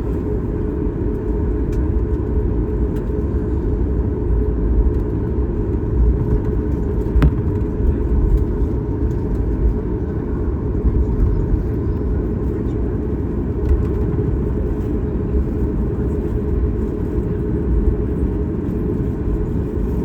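Steady low rumble inside the cabin of a Boeing 737 MAX 8 on the ground before takeoff, its CFM LEAP-1B engines running at idle thrust.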